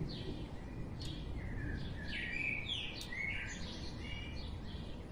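Small birds chirping in the background, a run of short sweeping chirps, over a low steady rumble, with a few faint clicks.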